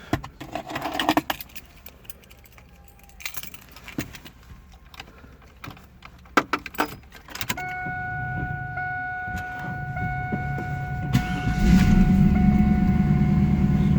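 Clicks and key jangling as the driver settles into the car, a steady high tone from about halfway, then the 2000 Pontiac Firehawk's 5.7-litre LS1 V8 cranks and catches about eleven seconds in and settles into a steady idle.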